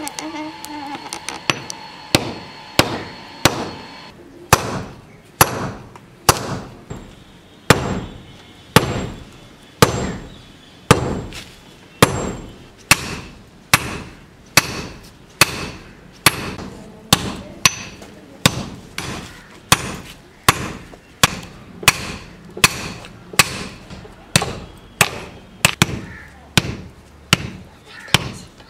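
Hand hammer striking red-hot steel on a steel block used as an anvil, forging the blade of a kukri. The blows come in a steady rhythm of about four every three seconds, each a sharp ringing clang.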